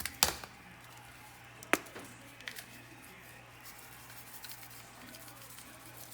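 Kitchen handling noises while seasoning chicken: a sharp click or knock about a quarter second in and another just under two seconds in, then a smaller one and a few faint ticks.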